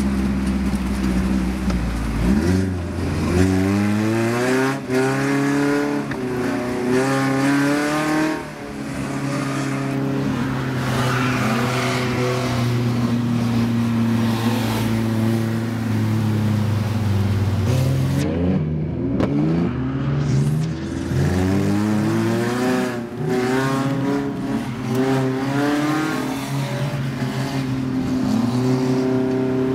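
Suzuki Vitara's engine heard from inside the cabin, revving up and dropping back again and again under throttle while drifting, with a longer stretch of steady held revs midway.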